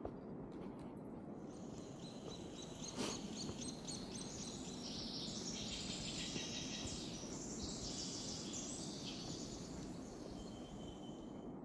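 Small birds chirping and calling over a low steady background rush. The calls are densest in the middle, and there is a single sharp click about three seconds in.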